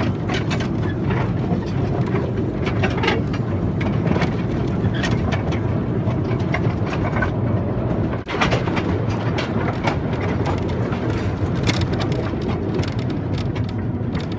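A vehicle moving along with a steady low rumble and frequent clicks and rattles, with a brief drop in level about eight seconds in.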